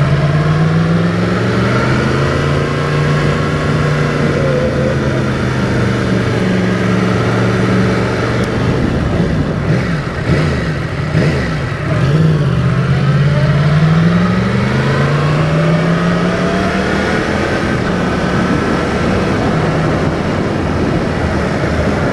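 Yamaha MT-10's crossplane inline-four engine through an Akrapovič muffler, ridden at road speed, its pitch rising and falling with the throttle; about ten seconds in it drops away and then climbs again.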